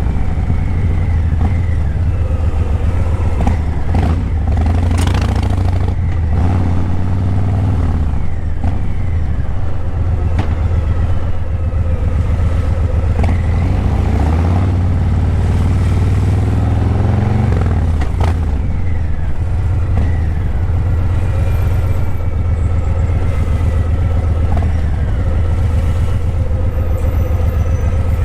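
Harley-Davidson Breakout 117's Milwaukee-Eight V-twin running through Vance & Hines Eliminator 300 slip-on mufflers while riding: a steady deep exhaust rumble, with the revs rising and falling a few times.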